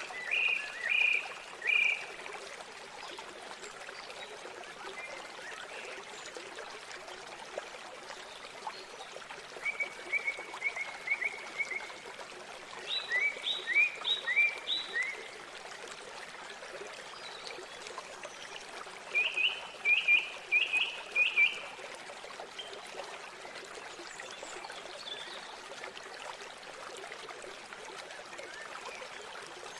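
Steady rush of flowing river water, with a bird calling four times in quick series of three to six short, sharp, repeated notes.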